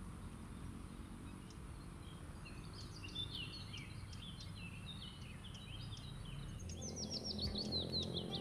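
A small songbird singing a run of quick chirps from about two seconds in, ending in a fast series of downward-sweeping notes, over a steady low outdoor hum. Soft music comes in near the end.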